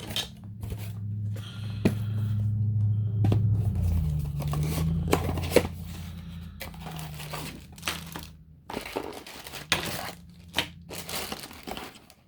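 Packaging crinkling and rustling, with scattered clicks as small printed parts are handled. A low hum runs underneath and fades out about eight seconds in.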